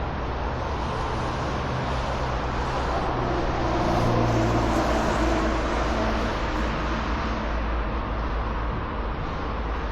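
Steady city road traffic, with one motor vehicle's engine growing louder and passing about four to five seconds in, then fading back into the traffic.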